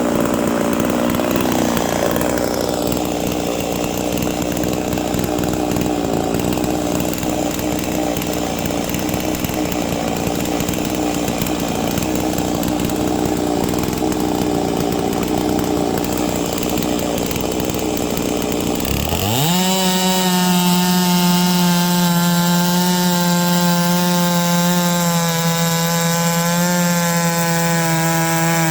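Holzfforma G660 98.5cc big-bore chainsaw (an MS660 clone) running at full throttle on a chainsaw mill, bogged down and noisy under load in the cut. About two-thirds of the way through, its pitch climbs sharply and holds high and steady as the engine revs up, as when the chain comes free of the wood.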